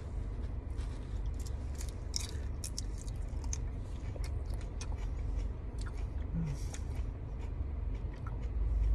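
Close-up chewing of a mouthful of salad greens: wet crunches and crackles, thickest in the first few seconds, then slower and sparser.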